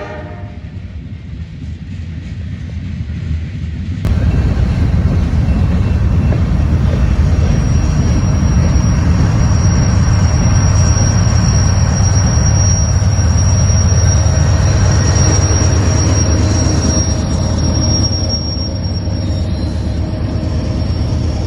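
A train passing close by: a low rumble of wheels on rail that grows and jumps suddenly louder about four seconds in, then runs on steadily, with a thin high wheel squeal over much of it.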